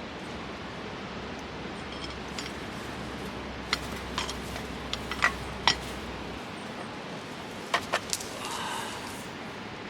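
Cooking utensils and cookware clinking and tapping: about seven sharp clicks, some with a short metallic ring, from about four seconds in to about eight seconds in, over a steady background hiss.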